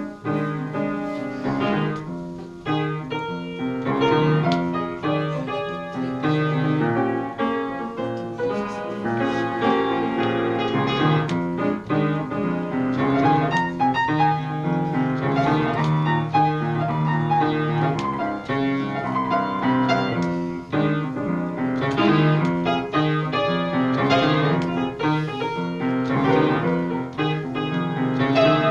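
Piano playing a flowing interlude, many notes and chords in quick succession.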